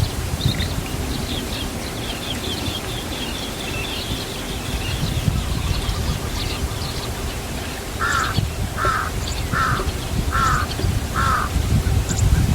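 Birds calling: a run of quick high chirps, then a series of five short, evenly spaced calls about two-thirds of the way through.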